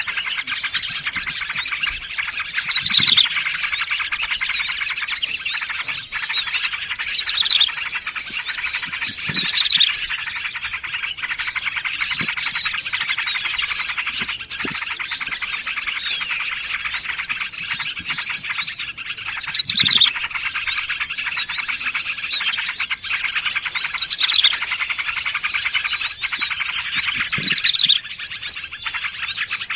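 Bird-lure recording of several small songbirds calling at once: dense, overlapping chirping, with a few falling whistles and, twice, a stretch of rapid high trilling.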